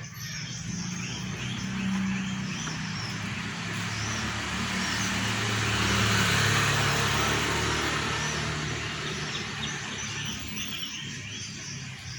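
A motor vehicle passes by, growing louder to a peak about six seconds in and then fading away. Small birds chirp faintly throughout.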